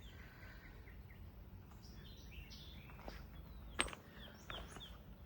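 Birds chirping in short, high calls in two small clusters, over low steady outdoor background noise, with one sharp click about four seconds in.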